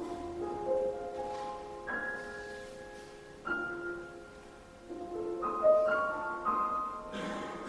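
Piano playing a slow, quiet piece: chords and single notes struck every second or two and left to ring out and fade.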